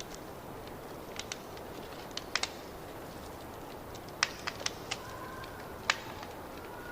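Wood fire crackling in a fireplace: irregular sharp pops and snaps over a steady low hiss, with the loudest pops about four and six seconds in.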